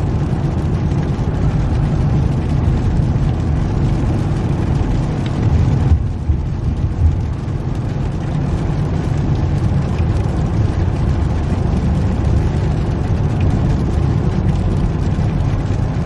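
Steady low rumble of engine and tyre noise heard from inside a moving car's cabin. Around six seconds in there is a brief change with a couple of short bumps.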